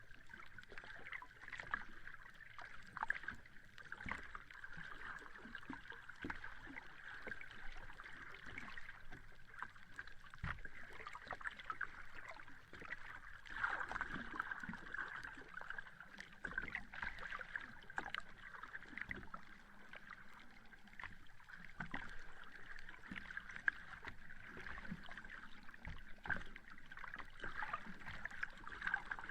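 Sea water lapping and washing at the shore, a continuous crackling, fizzing wash that swells and eases every few seconds.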